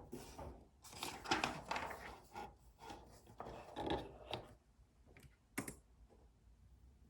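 Desk study sounds: a dense run of clicks and paper-like rustling, then two sharp clicks a little after five seconds in, over a faint low rumble.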